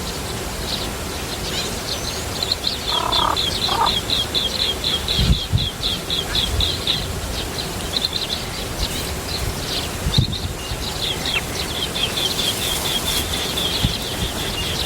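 Small bird chirping in long runs of quick, high, repeated notes, about four or five a second, with a short lower call about three seconds in.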